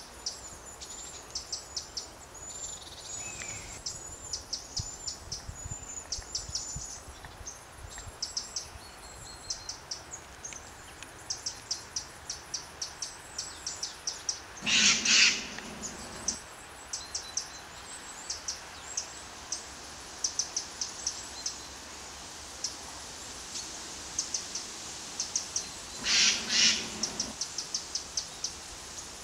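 Wild birds calling: a running series of short, high chirps throughout, with two loud, harsh calls of about a second and a half each, one around the middle and one near the end.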